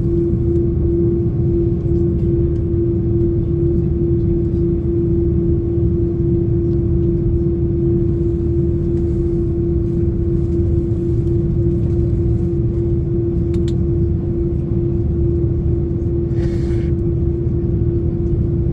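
Steady drone of the Airbus A330-300's GE CF6-80 turbofan engines heard from inside the passenger cabin: a constant hum over a low rumble, with a brief hiss near the end.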